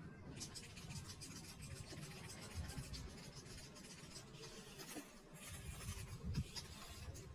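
Faint, irregular scratching and rubbing from a cat playing with a rope ball on the floor.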